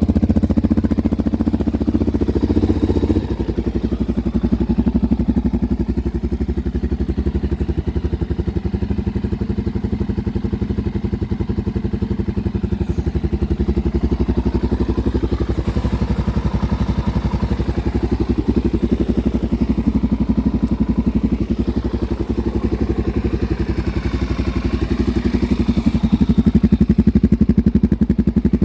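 Suzuki DR-Z400's single-cylinder four-stroke engine running steadily at idle, a thumping pulse of firing strokes, dropping slightly in level about three seconds in and a little louder near the end.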